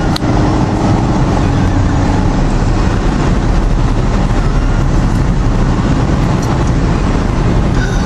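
Steady road and engine noise of a car driving along, heard from inside the cabin, with a single brief click just after the start.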